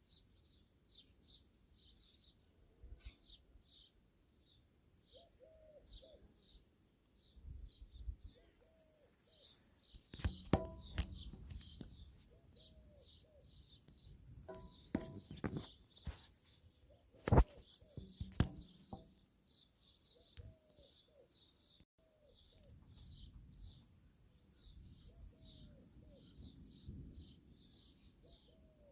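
Birds chirping in short calls repeated several times a second, with a lower falling call recurring every second or two over a faint steady high drone. A few sharp knocks or cracks come in the middle of the stretch, the loudest about two thirds of the way through.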